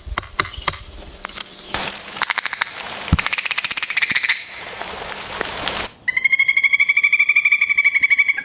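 Woodpecker pecking into wood while excavating a nest hole: scattered single taps, then two quick runs of rapid drumming. About six seconds in, a high, rapidly pulsing trill call sounds for about two seconds.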